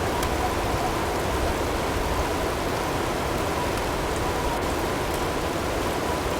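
Blizzard ambience: a steady rush of wind-driven storm noise, with a few faint ticks and a faint steady tone blended in underneath.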